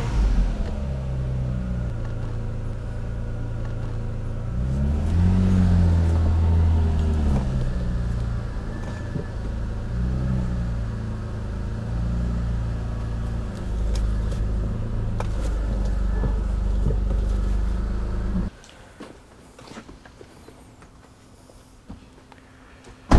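2000 Audi S4's 2.7-litre twin-turbo V6 running as the car is driven slowly into a lift bay. Its engine speed rises and falls about five seconds in and again briefly around ten seconds, then it idles steadily and is switched off a few seconds before the end.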